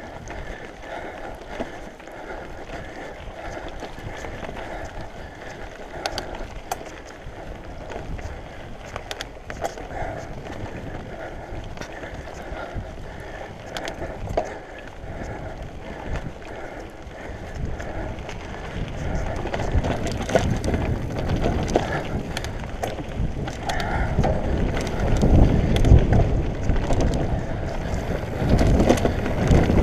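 A mountain bike riding a dirt singletrack: steady tyre noise over dirt and stones with frequent rattles and knocks, and wind on the microphone. It gets louder and rougher in the second half.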